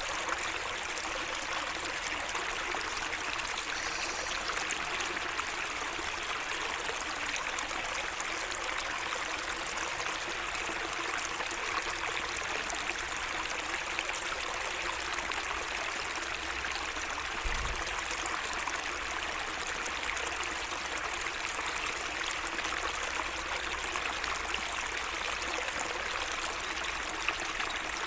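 A small garden stream flowing and trickling steadily. There is one brief low bump about two-thirds of the way through.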